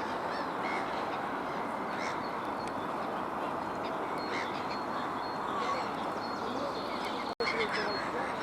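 Waterbirds on a lake, black-headed gulls and coots, giving short, scattered calls over a steady background murmur.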